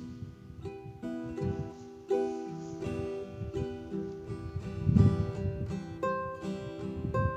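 Acoustic guitar music: a run of plucked notes, about three or four a second.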